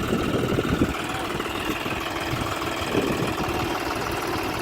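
Tractor diesel engine running steadily with an even, knocking beat.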